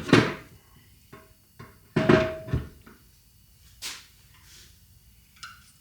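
Loose steel hub hardware (lock nut and claw washer off a Toyota front hub spindle) knocking and clinking as it is handled and set down: a knock at the start, a louder clank about two seconds in that rings briefly, and lighter taps near four seconds and near the end.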